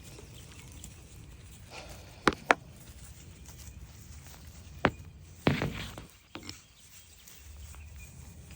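Several sharp knocks, a pair about two seconds in, then single ones near five and six and a half seconds, with a brief louder scraping rustle around five and a half seconds, over a low outdoor background.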